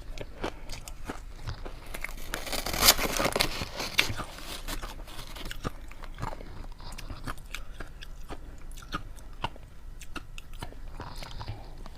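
Ice being bitten and chewed close to the microphone: a run of sharp crunches and cracks, loudest and densest about two to four seconds in, then steadier chewing crackles.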